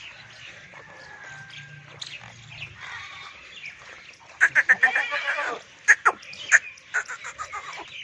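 Birds chirping, with a loud burst of rapid chattering calls about four and a half seconds in and a few sharp calls after it.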